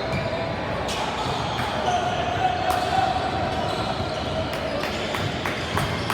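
Basketball bouncing irregularly on a gym's hardwood floor during a game, with the murmur of spectators and players echoing in the hall.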